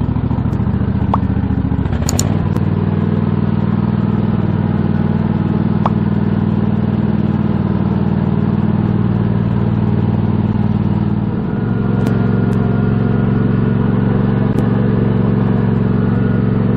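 Small engine of a mini ride-on tractor running steadily, its note shifting about two seconds in and again near eleven seconds, with a few sharp clicks.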